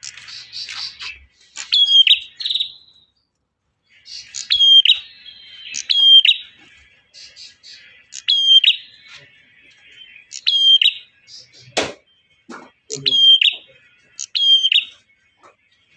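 Male prenjak (prinia) calling: loud, sharp high phrases, each a quick falling note ending in a short steady whistle, repeated about every one and a half to two seconds over a fainter buzzy trill. A single sharp click about twelve seconds in.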